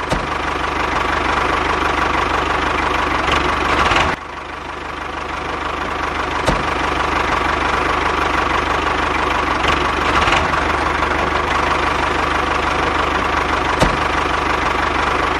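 Engine running steadily with a chugging, knocking beat, like a tractor engine idling. It breaks off briefly about four seconds in, and a few sharp clicks sound through it.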